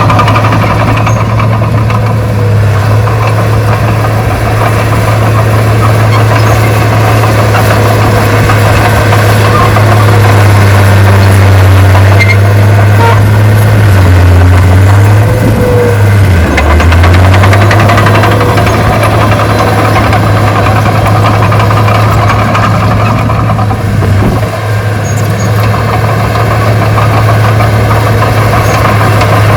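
Heavy diesel engine of earthmoving equipment running steadily and loudly, its pitch sagging briefly twice about halfway through, then recovering.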